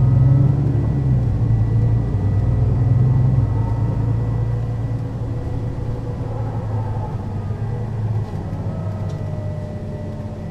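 Mercedes-Benz O 530 Citaro city bus's diesel engine and ZF automatic gearbox running, loud for the first three seconds or so and then easing off, with a faint whine gliding in pitch and a thin steady high tone.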